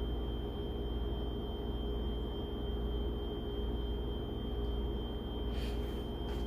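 Steady low electrical-sounding hum with a faint, thin high whine over an even background hiss. Two soft, brief rustles come near the end.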